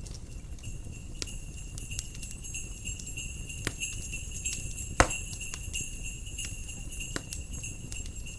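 Jingle bells ringing steadily over a crackling wood fire, with sharp crackles and one loud pop about five seconds in, above a low rumble of wind.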